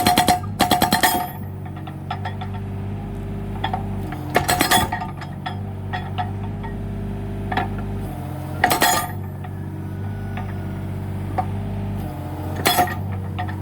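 Mini excavator engine running steadily while its hydraulic breaker hammers in four short bursts of rapid metallic strikes, roughly every four seconds, driving into firewood logs to split them.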